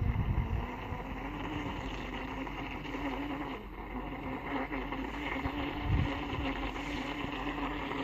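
A recovery boat's motor running steadily with an even whine, with wind buffeting the microphone at the start and again about six seconds in.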